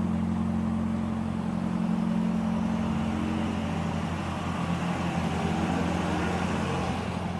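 Engine of a GO-4 three-wheeler running steadily at low speed, a low, even hum that wavers slightly in pitch midway.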